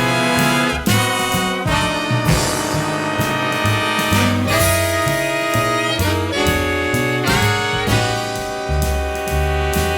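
Big band jazz ensemble playing: saxophones, trumpets and trombones in held chords over bass and drums.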